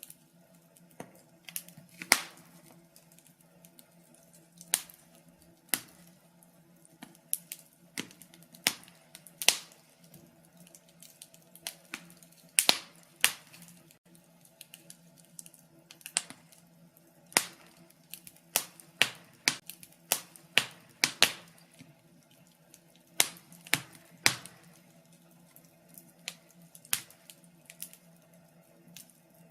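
Wood fire crackling in a fireplace: irregular sharp pops and snaps, some loud, several close together around the middle, over a faint steady low hum.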